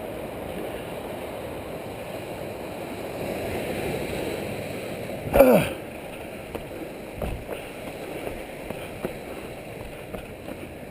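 Steady wash of wind and sea surf against a rocky shore, with one short, loud call that drops sharply in pitch about five seconds in.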